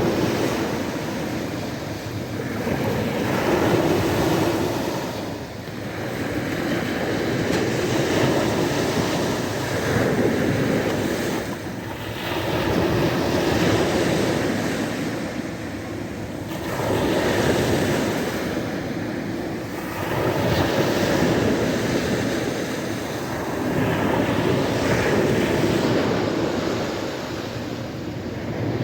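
Sea waves breaking and washing on the shore, the surf swelling and falling back about every three to four seconds.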